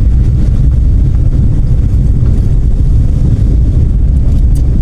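Steady low rumble of a car being driven, engine and road noise, with some wind on the microphone.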